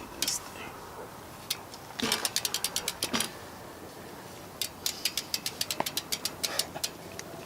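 BMX bike's rear freewheel hub clicking as the wheel coasts, in two runs of rapid, evenly spaced ratchet clicks about eight a second, the second run longer.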